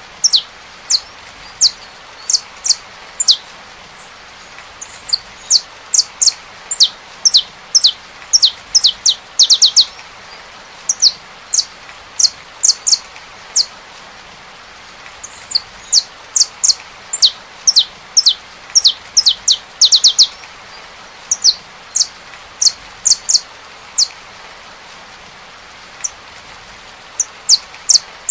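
Saffron finch singing: phrases of sharp, high notes that each sweep quickly downward, sometimes speeding into quick runs, with pauses of a second or more between phrases and a longer lull near the end. A steady rain hiss runs underneath.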